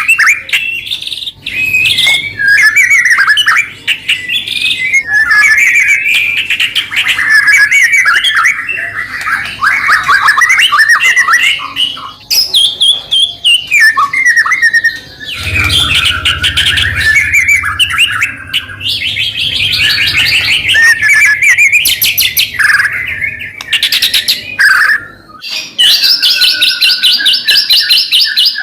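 White-rumped shama (murai batu) singing loudly and without pause: a varied stream of whistled phrases, rattles and quick trills that ends in a fast run of repeated notes.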